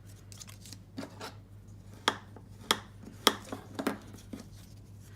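A handful of sharp taps and clicks, about six spread over a few seconds, from card stock and crafting tools being handled on a work table, over a low steady hum.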